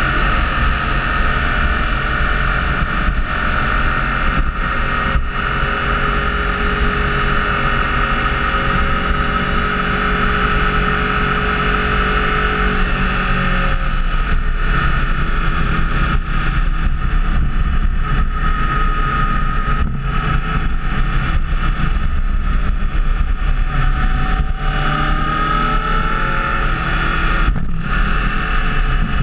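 Motorcycle riding at road speed: steady engine note under wind rush on the microphone, with the engine pitch shifting up and down near the end as the revs change.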